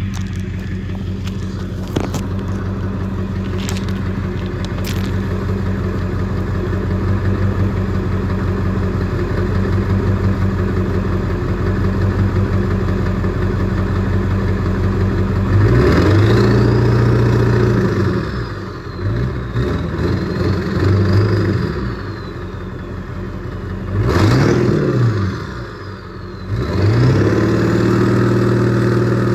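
Ford 7.3 Powerstroke turbo-diesel V8 idling with a deep rumble through a 10-inch exhaust tip, then free-revved a few times about halfway through. Each rev rises and falls in pitch, with turbo whistle climbing and fading along with it.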